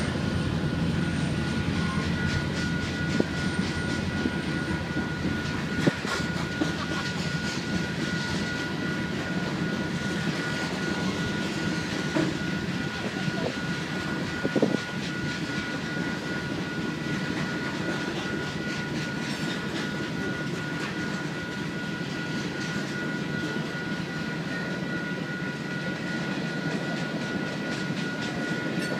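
Freight cars (tank cars, covered hoppers, a centerbeam flatcar) rolling steadily past: a continuous rumble of wheels on rail with a few sharp clanks, and steady high-pitched tones over it.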